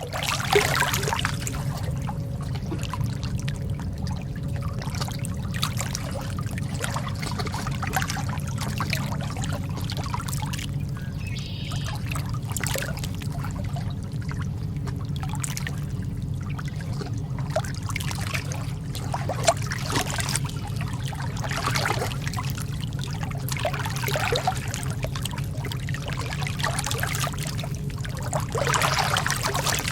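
Lake water lapping and trickling in many small, quick splashes over a steady low rumble.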